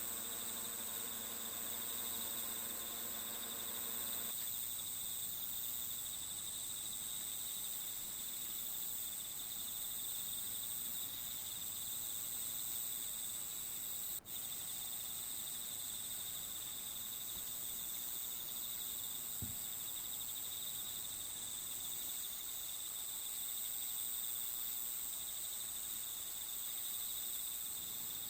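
Steady high-pitched chirring of insects in a nature ambience, with a faint low hum that stops about four seconds in. There is a momentary dropout about halfway through.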